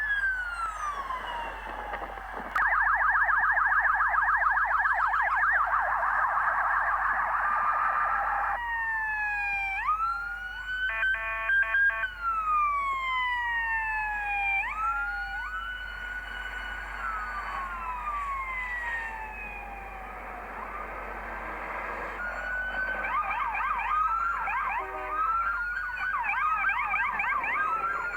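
Several police car sirens sounding at once, overlapping, switching between a rapid warbling yelp and a slow rising-and-falling wail, with a brief steady tone near the middle.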